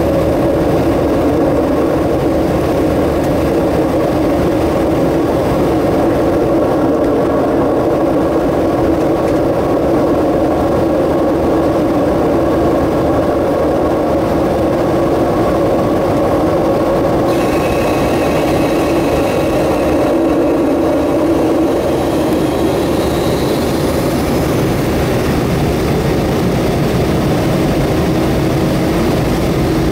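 Cabin noise of a McDonnell Douglas MD-90 climbing out after takeoff: the steady drone of its rear-mounted IAE V2500 turbofans over a low airframe rumble. A faint high-pitched whine joins a little past halfway.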